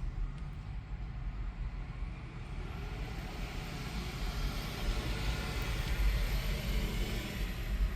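Garbage truck engine running with a steady low rumble, while a hiss swells in the middle and fades near the end.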